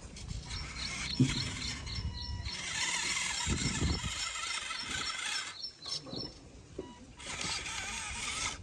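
Small electric motor and plastic gearbox of a remote-control toy tractor running in two spells, the first starting about two and a half seconds in and the second near the end, with a few light knocks between.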